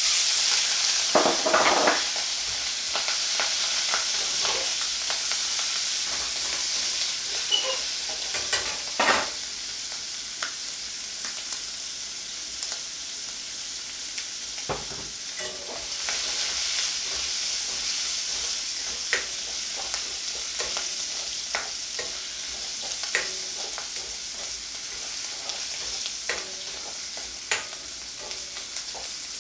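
Peeled shrimp dropped into hot lard in a wok: a loud sizzle that starts suddenly and keeps going, easing off slightly over time. A metal ladle knocks and scrapes against the wok now and then as the shrimp are stirred.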